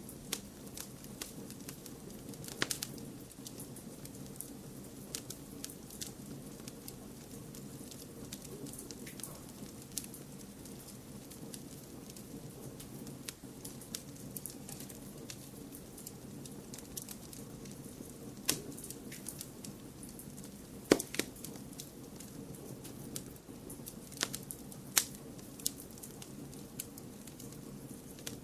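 Wood fire crackling, with irregular sharp pops over a steady low rushing noise; the two loudest pops come a little past two-thirds of the way through and again a few seconds later.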